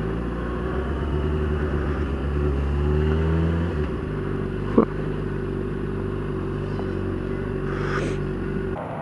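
Motorcycle engine running under way. Its pitch rises for a couple of seconds, then drops sharply about four seconds in, and afterwards it holds steady. There is a brief click near the middle.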